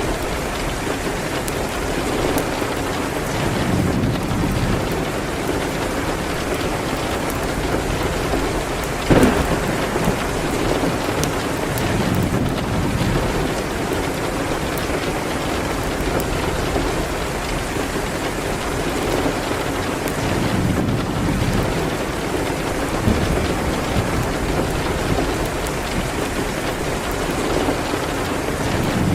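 Steady heavy rain with low rolls of thunder swelling and fading several times, and fine crackling clicks over it. A single sharp crack about nine seconds in is the loudest sound.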